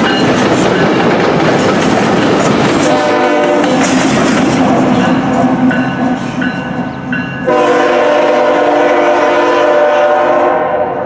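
Diesel locomotives running past, followed by a locomotive horn: one blast about three seconds in, a few short toots, then a long blast from about halfway that cuts off near the end.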